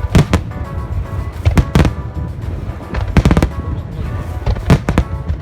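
Aerial fireworks bursting in clusters of sharp bangs, a new cluster about every one and a half seconds, over music.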